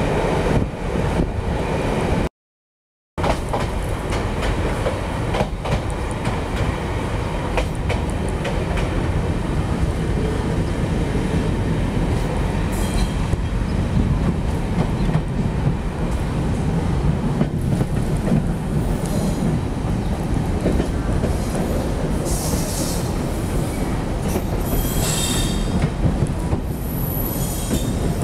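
Passenger train running on the rails, heard from on board: a steady rumble of wheels and track, with high wheel squeal in the last few seconds. The sound cuts out completely for under a second near the start.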